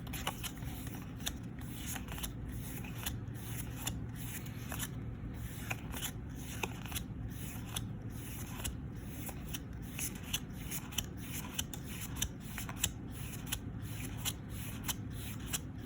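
Yu-Gi-Oh! trading cards being flipped through by hand one after another: a steady run of light card snaps and slides, about two a second.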